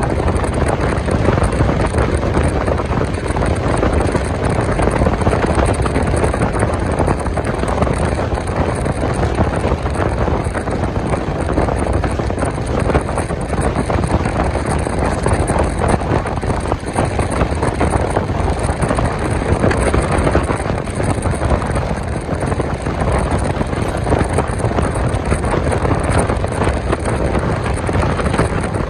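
Passenger train running along the track, heard from on board: a steady, even rumble of the coach and wheels, with some wind on the microphone.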